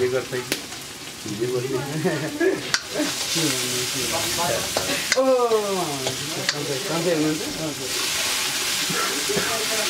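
Greens sizzling in an iron wok over a wood fire while a metal ladle stirs them, with a few sharp clicks of the ladle against the wok. Through the middle a person's voice is heard, including one long falling call about five seconds in, and the sizzle is loudest at the start and near the end.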